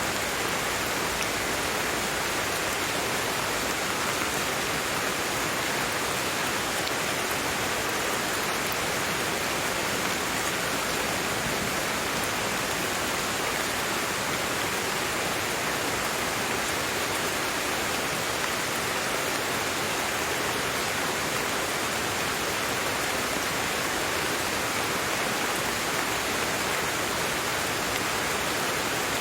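Steady rain falling, a constant even hiss with faint scattered drop ticks and no change in strength.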